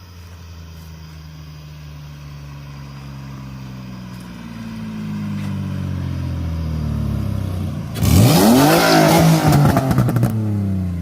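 Two Nissan V6 cars, a 350Z and a Maxima, racing at full throttle. Their engine note climbs steadily and grows louder, then about eight seconds in comes a sudden loud rush with the pitch sweeping up and then down as they pass close by, lasting about two seconds, before an engine note falls away near the end.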